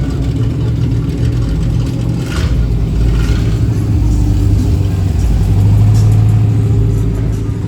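A truck engine running, with steady low tones that grow louder about five seconds in and ease off near the end.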